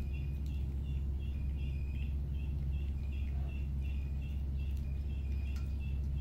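A steady low hum with a bird chirping over it, short high notes repeated evenly two to three times a second.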